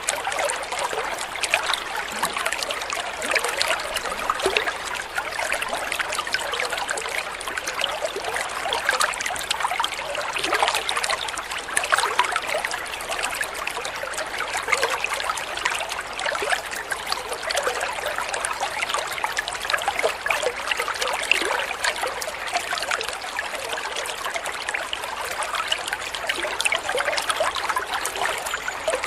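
Running water trickling and splashing steadily, a continuous babble of small splashes.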